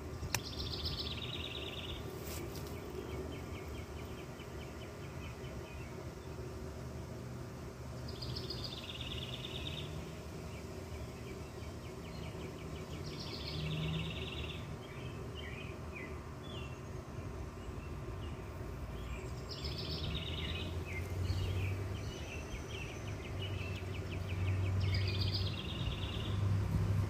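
A songbird singing the same short trilled phrase five times, about every five or six seconds, over a steady background hiss. A low drone grows louder near the end.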